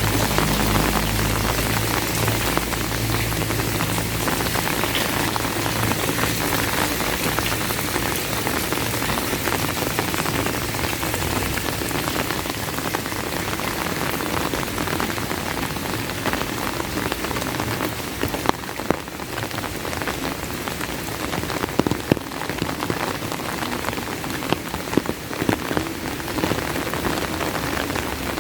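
Heavy rain falling steadily, a dense even hiss with scattered sharper drop impacts that grow more frequent in the second half. A low rumble underneath fades out over the first several seconds.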